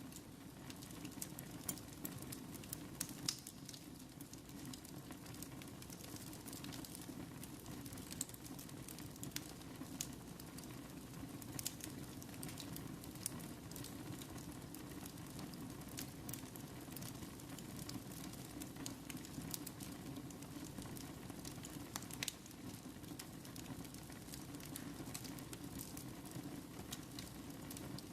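Wood fire burning in a fireplace: a steady low rush of flames with frequent sharp crackles and pops at irregular moments.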